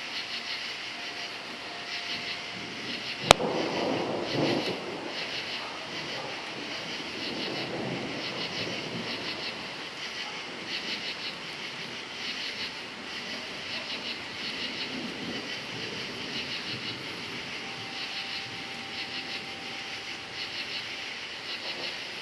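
Crickets chirping in a steady pulsing chorus while thunder rumbles. A sharp crack comes about three seconds in, followed by a rolling rumble lasting several seconds, with a fainter rumble later on.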